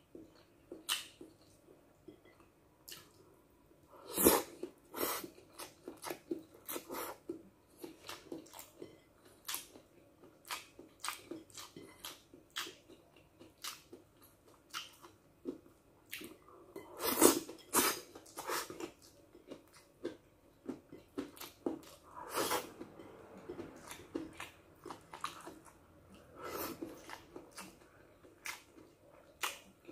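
A person chewing and smacking their lips while eating stir-fried pancit canton noodles by hand: a steady run of short smacks and clicks, with a few louder ones about four seconds and seventeen seconds in.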